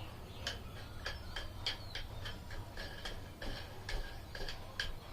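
Irregular sharp clicks and light clinks of adjustable dumbbell parts, handle bar, plates and screw collars, being handled and fitted together, some ringing briefly.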